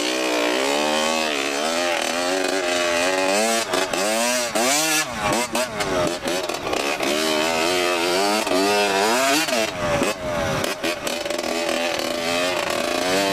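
Small off-road engine revving up and down over and over, its pitch rising and falling every second or so, as when throttling for wheelies.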